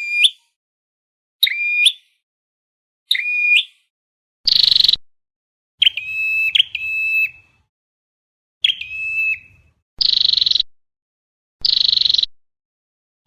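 Recorded flowerpecker calls played as a trapping lure. Short sharp notes that drop in pitch alternate with harsh buzzy chirps, one every second or two.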